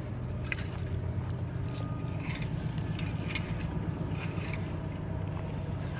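Steady low mechanical hum, like a running motor or engine, with a few faint light clicks and scrapes over it.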